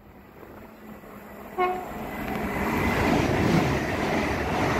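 A passenger train gives a brief horn toot about one and a half seconds in, then runs past close by, its rumble and wheel noise building and staying loud.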